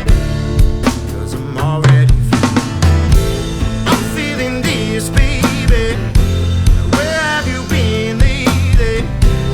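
Drum kit played through an instrumental stretch of a rock song, with kick drum, snare and cymbal hits over the recorded band track's sustained bass notes and a bending melodic line in the middle.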